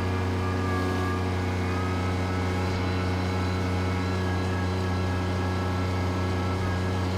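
Bobcat tractor's engine running at a steady speed, an even low drone with no changes.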